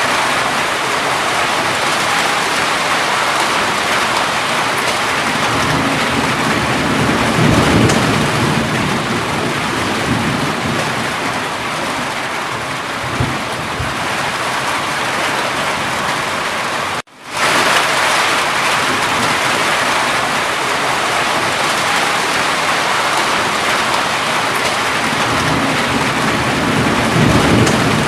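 Steady heavy rain, with low rumbles of thunder swelling a few times. The sound cuts out for an instant about two-thirds of the way through.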